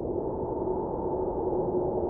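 Snowstorm wind blowing steadily: a deep, muffled rush with a faint steady hum-like tone running through it.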